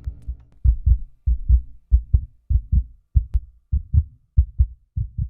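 Heartbeat sound effect: low paired "lub-dub" thumps, about one pair every 0.6 seconds.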